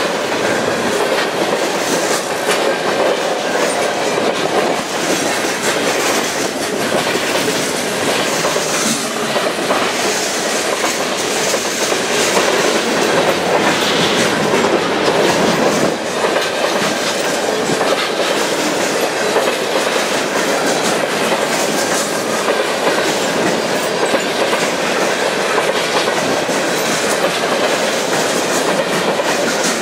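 Freight cars of a passing train rolling by, their steel wheels on the rails making a steady, loud rumbling rattle dotted with frequent clicks.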